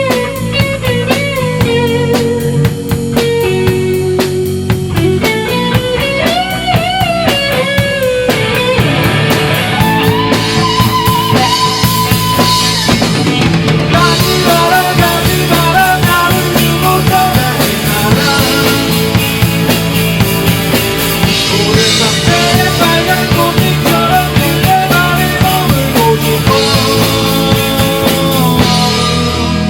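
A rock band playing an instrumental passage live: drum kit keeping a steady beat under bass and guitar, with a lead melody of sliding, bending notes over the top.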